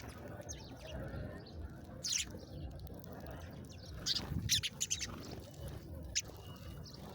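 Small songbird chirping: scattered short, high chirps, with a quick cluster of them about four to five seconds in, over low background noise.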